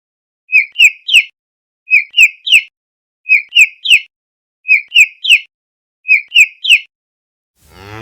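Domestic chicks peeping in sets of three short rising peeps, one set about every second and a half. A cow starts mooing right at the end.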